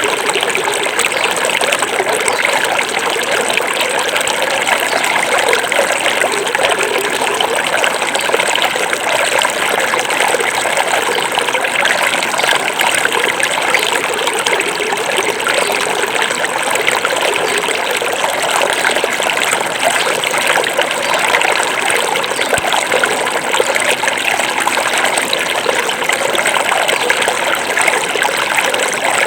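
Small forest stream running over rocks: a steady, dense rush and trickle of flowing water.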